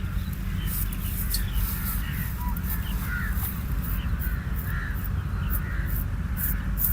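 Razor scraping over chest skin and hair in short, crisp strokes, about two a second.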